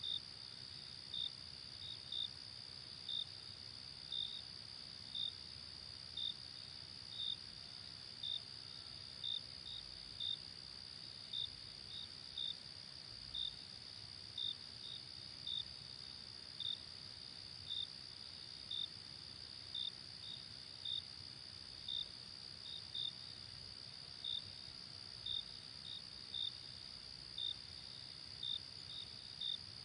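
Night insect chorus: a steady high-pitched drone under short, high chirps that repeat about once a second, sometimes in quick pairs.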